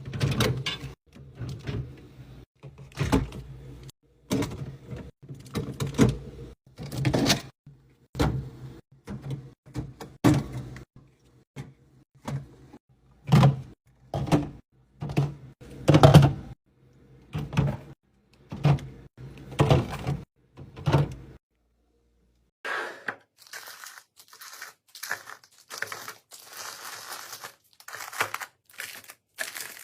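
Fridge restocking: irregular knocks and clacks of items and plastic containers being set down and slotted into place. After a short break about two-thirds of the way through, the sound turns to the crinkling of packaging being handled.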